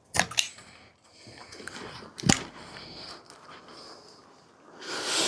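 An old rubber handlebar grip being cut and worked off a bicycle handlebar: sharp knocks near the start and about two seconds in, scraping and rubbing between them, then a louder rushing scrape near the end.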